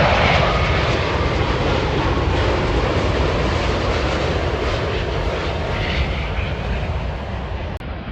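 Boeing 787 Dreamliner jet airliner on final approach passing low overhead, its engines loudest at the start and slowly fading as it moves away toward the runway.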